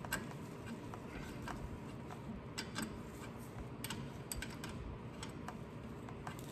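Scattered light metal clicks and ticks, irregularly spaced, from a 1/2-inch open-end wrench being fitted onto and worked around bolts while reinstalling a drive shaft.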